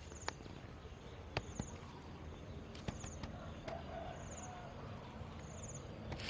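Forest ambience: a short, high, rapidly pulsed chirp repeats about every second and a half over a steady background, with scattered sharp clicks and snaps like footsteps on twigs and leaf litter.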